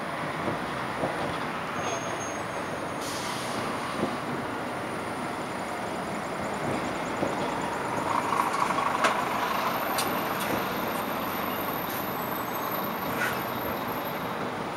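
Rail-yard sound of a double-deck passenger train rolling slowly over the tracks, a steady rumble and hiss. A brief screech rises about eight seconds in, and a few sharp clicks follow.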